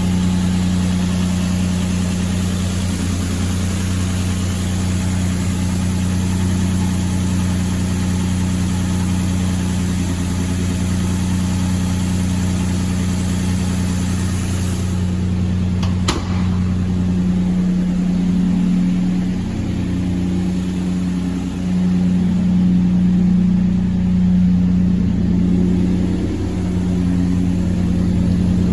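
2007 Nissan Frontier pickup engine idling steadily, with one sharp click about halfway through.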